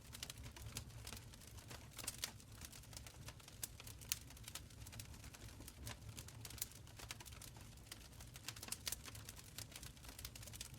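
Wood fire crackling in a stone fireplace: irregular sharp pops and snaps, several a second, over a low rumble of burning.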